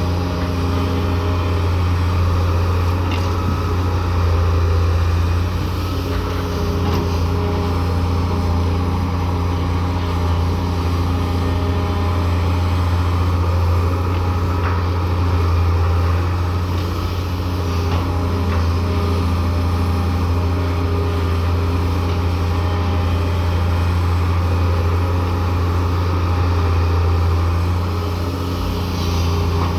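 Daewoo 170W3 wheeled excavator's diesel engine running steadily under load, a constant low drone that swells slightly now and then, with a few faint knocks.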